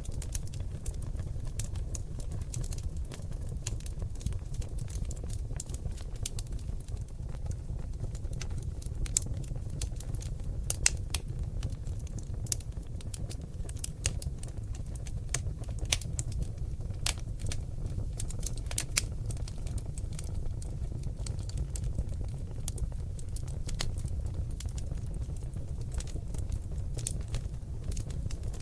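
Oak log fire burning in a fireplace: a steady low rumble of flame with frequent sharp crackles and pops, a few louder pops about nine to eleven seconds in.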